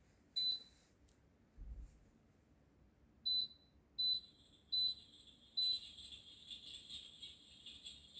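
Electric fireplace's touch control panel beeping five times, short high beeps of one pitch. After the last beep a steady high hiss with faint crackle comes on: the fireplace's built-in flame sound.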